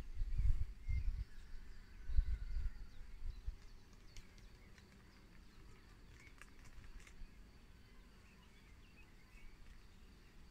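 Quiet rural outdoor ambience: a faint insect hum with a few faint bird chirps and small clicks. A few low rumbles come in the first three seconds or so.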